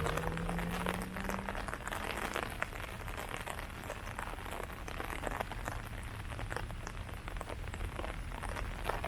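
Rain falling on leaves: a steady patter with many separate drop hits. A low steady hum sounds under it for about the first second and a half, then stops.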